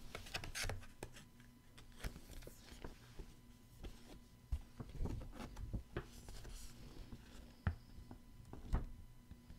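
Quiet handling noise: paper rustling in short patches, with scattered light clicks and taps as printed box-set items are moved about.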